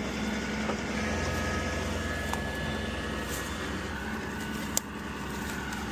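Engine idling steadily at a low hum, with one sharp click about five seconds in.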